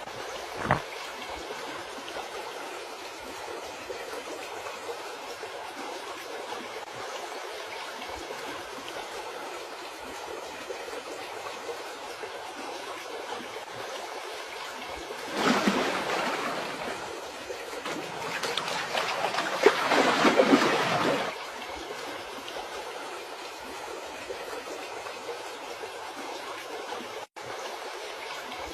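Steady rush of flowing river water, with two louder rushing surges, one about halfway through and a longer one a few seconds later.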